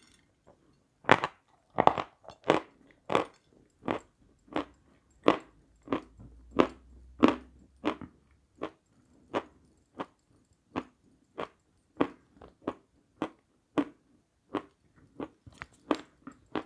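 Close chewing of a crunchy white Sevryukovo dessert: a steady train of crisp crunches, two or three a second, starting about a second in. The crunches are loudest in the first half and grow gradually softer.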